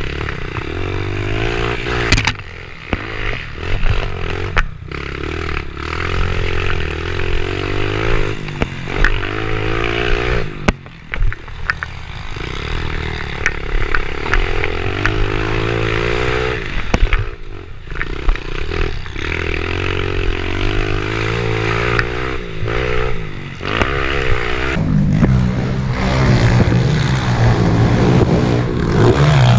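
Small single-cylinder four-stroke pit bike engines revving and backing off the throttle as the bikes ride around a dirt track, the pitch rising and falling again and again. A bike gets louder and closer about 25 seconds in.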